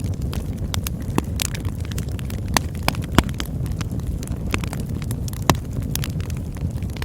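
Campfire burning: a steady low rumble of flames with irregular sharp crackles and pops from the burning wood, a few louder snaps among them.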